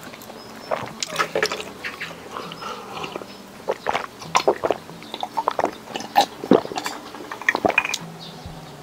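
Close-miked chewing of crispy fried shrimp: irregular crackling crunches of the batter, coming thickest in the second half.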